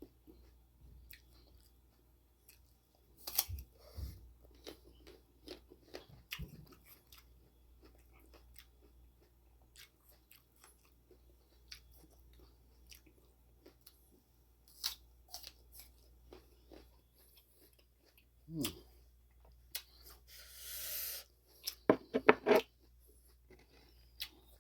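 Crab apples being chewed with the mouth close to the microphone: scattered crisp crunches and chewing clicks. A brief hiss comes about 20 seconds in, followed by a quick cluster of loud, sharp sounds, the loudest in the stretch.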